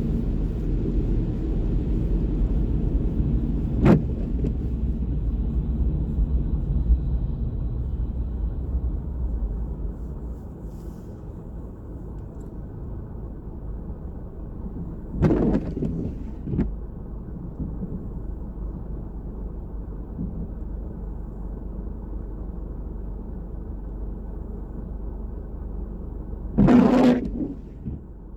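Steady low rumble of city traffic on the street, with a sharp click about four seconds in and two short louder noises, one near the middle and one near the end.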